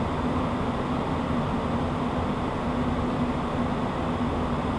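Cockpit noise of a Beechcraft Premier 1 business jet in flight: a steady rush of airflow and engine noise with a constant low hum.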